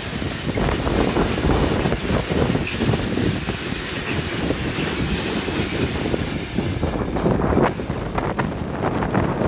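Freight train's tank wagons rolling past on the rails: a steady wheel-on-rail rumble with many sharp clicks as the wheels cross rail joints.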